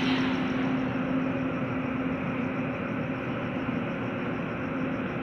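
Steady hum of a Taiwan Railway express train standing at the platform, with a constant low drone and no sudden changes.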